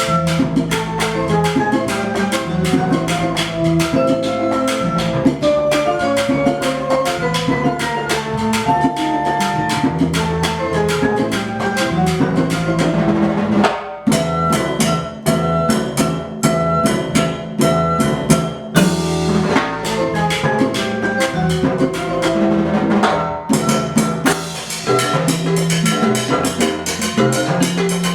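Live percussion ensemble playing: drums keep up a dense, steady rhythm under a melody on a pitched instrument. The beat breaks off briefly about 14 seconds in.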